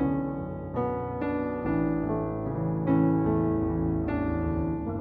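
Background music: slow piano chords and notes, struck one after another.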